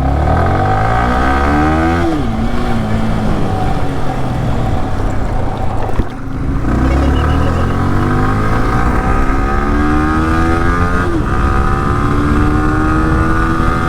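Motorcycle engine accelerating hard through the gears: the pitch climbs steadily and drops sharply at three upshifts.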